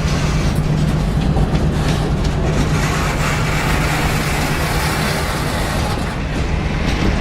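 Train passing close by: a loud, steady rumble of wheels on rail with a constant low drone underneath and scattered clicks.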